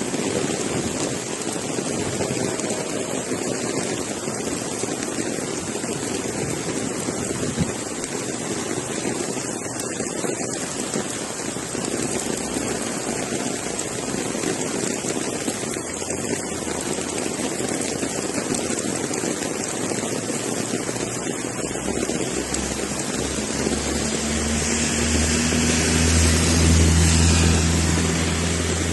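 Steady hiss of falling rain. Near the end, the low hum of a passing engine grows louder and then eases off.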